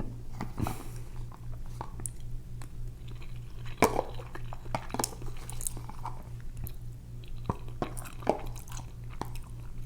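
Close-miked chewing and wet mouth clicks of someone eating leftover Rice-A-Roni, as scattered sharp clicks, over a steady low hum.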